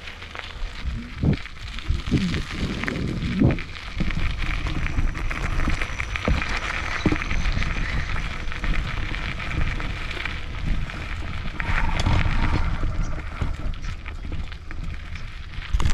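Bicycle being ridden over a rough forest track: steady crunching tyre noise and wind rumbling on the microphone, with scattered knocks and rattles from the bike.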